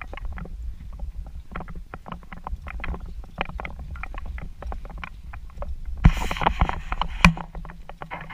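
A boat hoist moving in the water: irregular knocks and clicks over a steady low rumble, with a louder splashy burst and two sharp knocks about six to seven seconds in.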